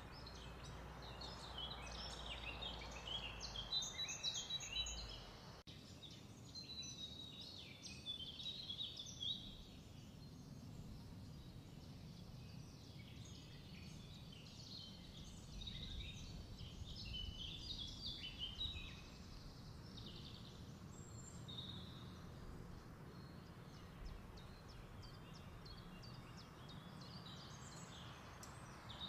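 Faint chirping and twittering of small birds, many short high calls, over a low steady hum.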